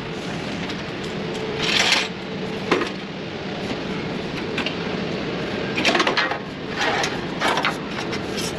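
Short, irregular clanks and scrapes of hand tools working on hose fittings, over a steady mechanical hum.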